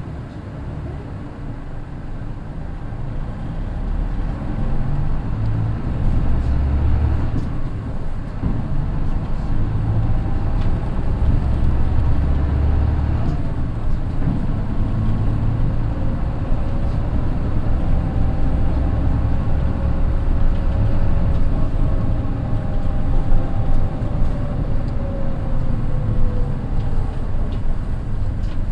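Mitsubishi Fuso bus's naturally aspirated 6M61 diesel engine pulling hard, the engine note growing louder over the first few seconds and dipping briefly twice as the DD5M finger-shift gearbox changes gear. A gear whine rises and then falls in pitch through the later part.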